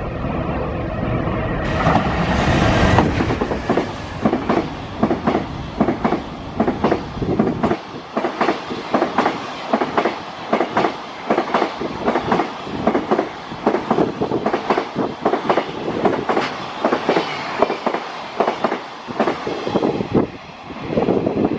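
Freight train passing close by: a heavy rumble from the locomotive peaks about two seconds in. Then the wagons' wheels clack over the rail joints in a steady, quick rhythm.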